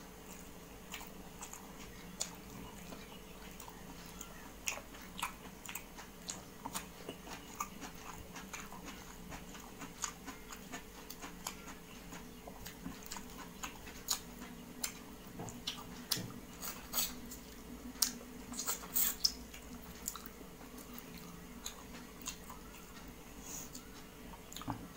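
A person chewing and eating food close to the microphone, heard as irregular wet mouth clicks and smacks that are busiest about two-thirds of the way through. A faint steady hum runs underneath.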